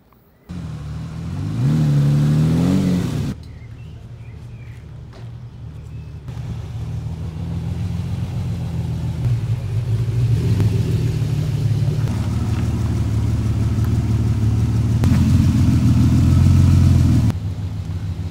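Lamborghini Countach V12 engine running: a quick rev rising in pitch about two seconds in, then a steady running note that grows louder and cuts off suddenly near the end.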